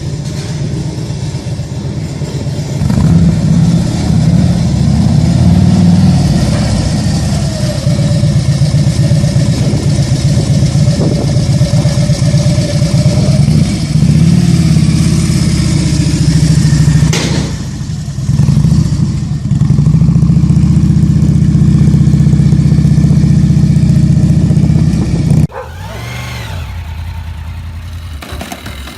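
Big-engined custom trike engines running loud, revved at times. The sound cuts off suddenly twice, about 17 and 25 seconds in, and after the second cut a quieter engine runs with a short rising rev.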